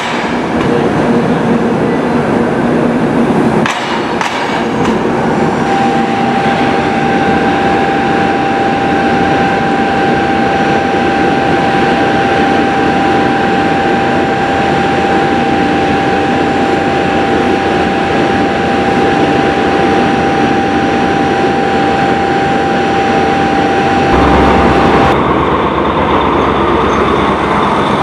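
A train running on rails, a loud steady rumble with a high steady tone held through most of it. A few sharp knocks come about four seconds in, and the sound shifts near the end.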